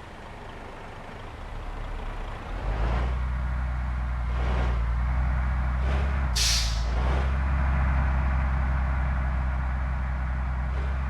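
Bus diesel engine running with a deep drone that grows louder over the first few seconds, then a sharp air-brake hiss about six seconds in.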